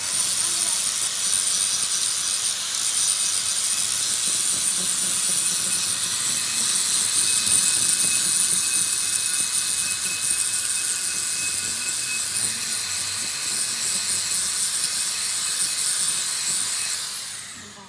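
Motor-driven workshop tool running steadily with a loud hiss and a thin high whine, which drops in pitch and fades as it winds down near the end.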